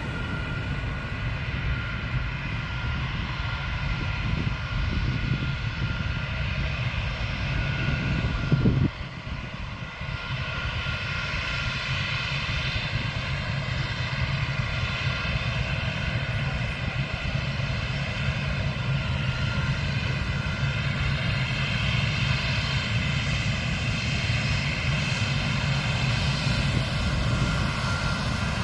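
Military aircraft engines running steadily, a low rumble under a high whine of several even tones, with a brief low thump about nine seconds in.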